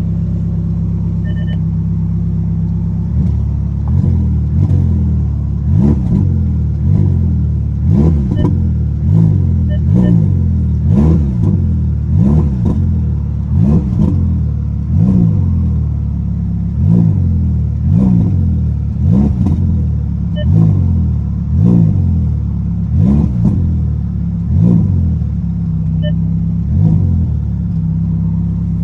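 Ferrari Roma's twin-turbo V8 idling, then blipped over and over, rising and falling in a steady run of revs about once every second or so, before settling back to idle near the end.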